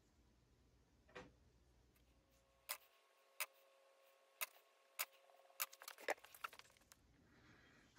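Sharp light clicks of small hard objects, about one a second, then a quick run of them near the end.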